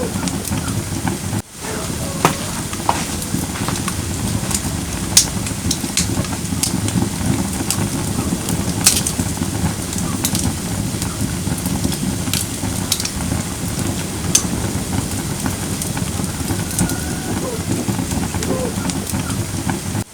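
Firewood burning in a fire pit: a steady rushing hiss of the flames with scattered sharp crackles and pops of the burning wood. The sound drops out briefly about a second and a half in.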